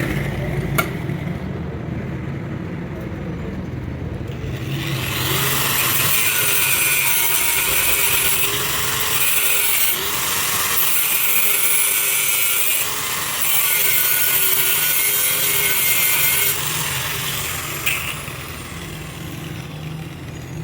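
A workshop tool cutting or working metal: a harsh, steady scraping noise starts about five seconds in and stops about eighteen seconds in, over a low motor hum.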